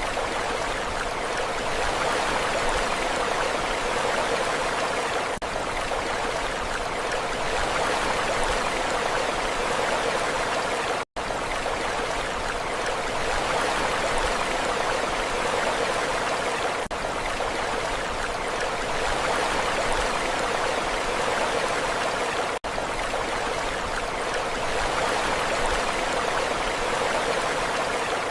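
Steady rushing of water, an even hiss with slight slow swells and no distinct breaking waves. It cuts out for an instant about eleven seconds in.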